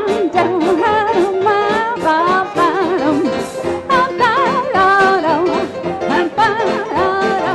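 1920s-style jazz dance orchestra playing an instrumental chorus of a Prohibition-era song. A wavering, vibrato-laden melody runs over a steady rhythm section beat.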